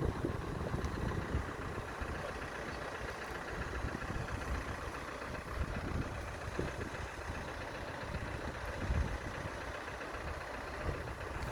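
Steady road-traffic noise, with vehicle engines running and a low, uneven rumble.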